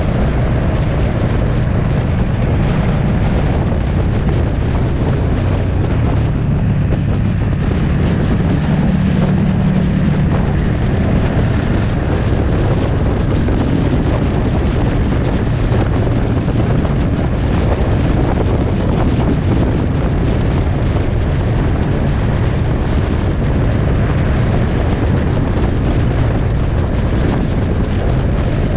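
Motorcycle riding at road speed: wind buffeting the microphone over the steady drone of the engine.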